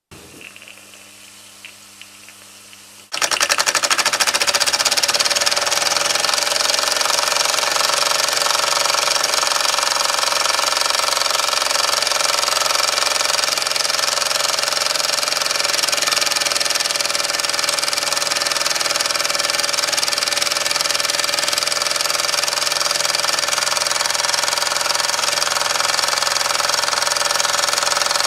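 Mamod model steam engine running at speed: a fast, even mechanical clatter with steam hiss, starting abruptly about three seconds in after a faint low hum.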